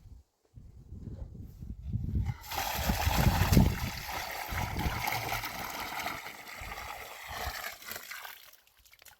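Water being poured and sloshing, starting suddenly about two and a half seconds in and tailing off near the end, over low knocks and thumps.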